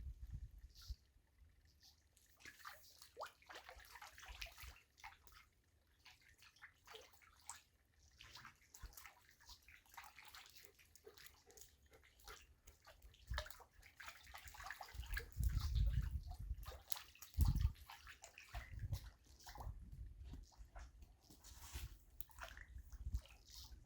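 Water splashing and sloshing in irregular strokes, as when something is washed by hand in a basin, with a few low thumps about two-thirds of the way through.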